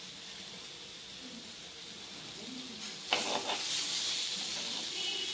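Spiced Indian gooseberry pieces frying in oil in a clay kadai, a soft sizzle at first. About three seconds in, a metal spoon starts stirring them and scraping against the clay pot, and it gets louder.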